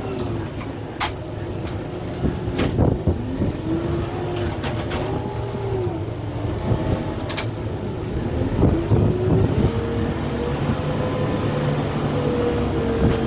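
Kubota M6-141 tractor's diesel engine running under load, its pitch rising and falling as it works the grapple, with several sharp cracks and snaps of wood and brush breaking.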